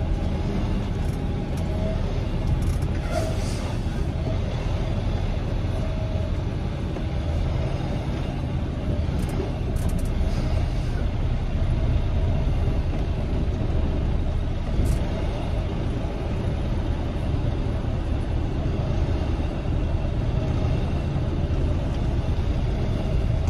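Semi tractor-trailer's diesel engine running steadily at low speed, a continuous low rumble with a few short clicks.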